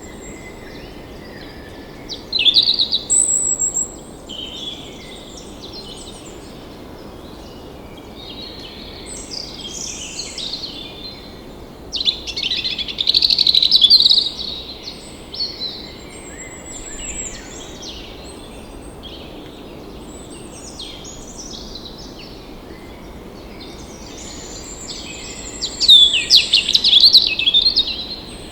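Songbirds singing and chirping in several loud phrases, about three seconds in, around the middle and near the end, with quieter chirps between, over a steady background hiss of outdoor ambience.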